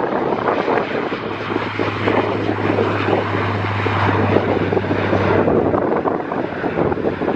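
Aircraft engine noise at an airport, mixed with heavy wind buffeting the microphone; a steady low hum comes in about a second and a half in and fades out near the end.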